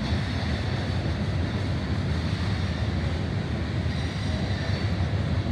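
Loaded coal train's cars rolling past, a steady rumble of wheels on rail. A faint high tone comes in near the end.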